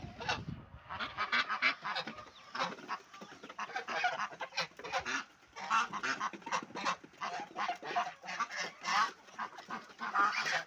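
A flock of farm poultry calling constantly at feeding time, many short overlapping honking calls.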